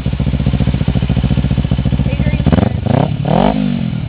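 Kawasaki Ninja motorcycle engine idling with a fast, even pulse, then revved once about two and a half seconds in, its pitch climbing and falling back within about a second.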